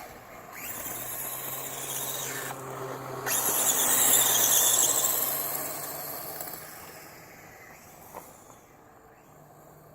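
Electric motor and drivetrain of a Duratrax DX450 radio-controlled dirt bike whining high under throttle, cut off twice briefly as the throttle is released, then fading away over the last few seconds.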